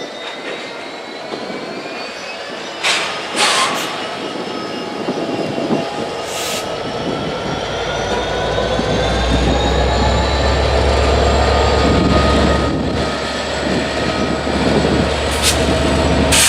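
Freight train rolling slowly past, its wheels squealing in long gliding tones, with several sharp clanks and a low rumble that grows louder about halfway through.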